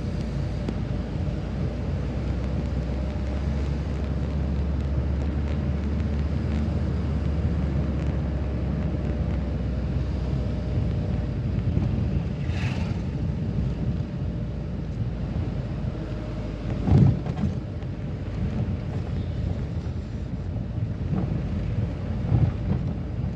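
A vehicle driving, its engine and road noise making a steady low rumble, with a sudden thump about 17 seconds in.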